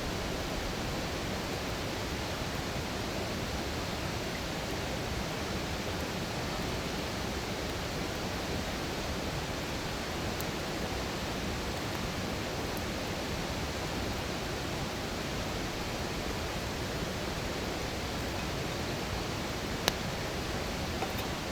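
Wood campfire burning in a fire stand, giving a few sharp single pops, the loudest near the end, over a steady rushing hiss.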